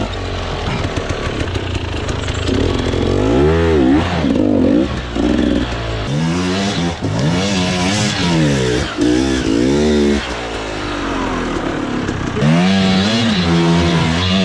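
Dirt bike engine revving up and down again and again as the throttle is opened and rolled off, with the pitch rising and falling every second or so.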